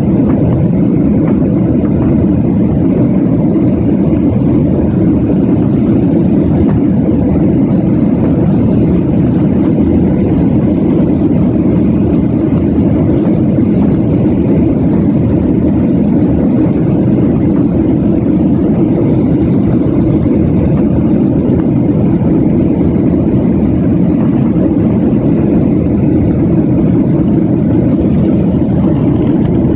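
Steady jet engine and airflow noise inside the cabin of a Boeing 737-800 airliner in flight after takeoff, a constant low rumble with no change in pitch or level.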